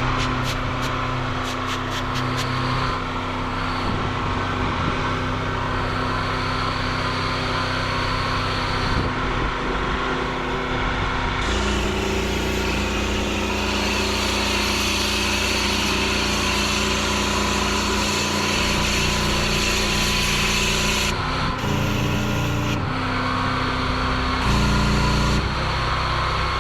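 Pressure washer engine running steadily, with the hiss of the high-pressure water jet, in several short clips joined by abrupt cuts.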